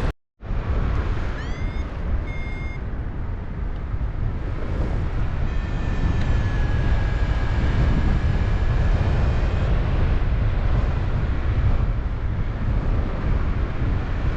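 Airflow buffeting the microphone in flight, with a paragliding variometer's electronic tones over it: a short rising tone and a brief beep about two seconds in, then a long, slightly falling steady tone about midway.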